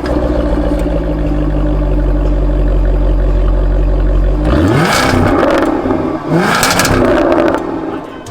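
A sports car's engine idling with a steady low note, then revved hard twice, about four and a half and six seconds in; each rev rises in pitch and then falls back.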